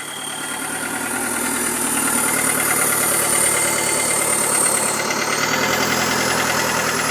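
Toyota Dyna 130 truck's diesel engine running just after being started during tuning, growing louder over the first couple of seconds and then running steadily.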